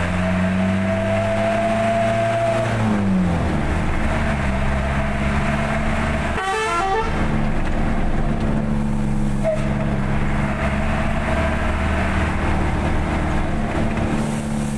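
Truck engine running steadily on the road; its pitch drops about three seconds in as the revs fall, then it holds steady. A brief high-pitched sound comes through about six and a half seconds in.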